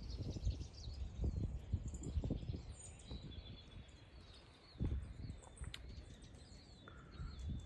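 Small birds chirping and twittering over low rumbling and a few dull thuds, the thuds loudest in the first couple of seconds and once about five seconds in.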